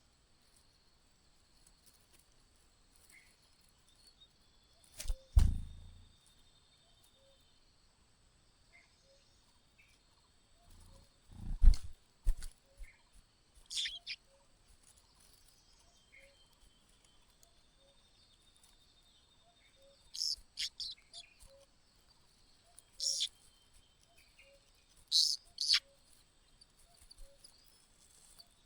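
Short, high, sharp bird chirps in small clusters over a faint steady high-pitched insect-like drone. Two heavy low thumps, about five and twelve seconds in, are the loudest sounds.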